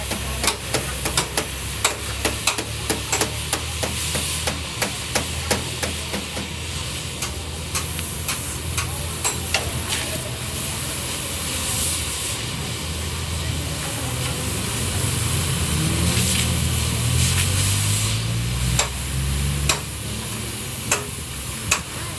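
Workshop sounds of metal work on a truck body: quick sharp knocks, several a second through the first half and fewer later, over a steady low hum.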